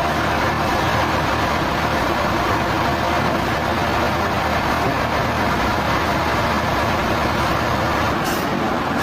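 Sawmill machinery running steadily, a loud continuous mechanical noise with no pauses.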